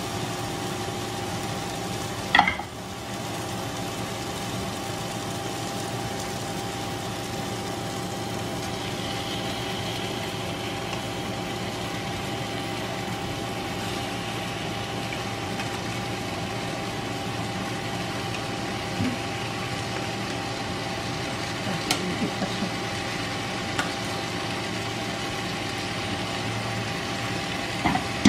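Onion, tomato and spice masala frying with a steady sizzle in a nonstick wok. A sharp metallic clink rings out about two seconds in, and a few light knocks come near the end.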